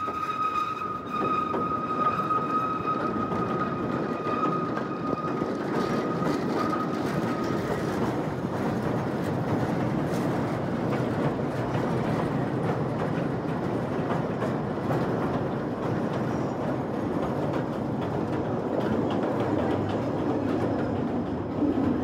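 Narrow-gauge Kurobe Gorge Railway train running along the track, a steady rumble and clatter of wheels on rails. A steady high-pitched squeal fades out about seven seconds in.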